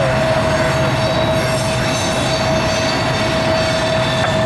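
Wheels of a Norfolk Southern trash train's loaded waste gondolas rolling past, squealing steadily against the rail on the sharp curve: one unbroken high tone over the rumble of the cars.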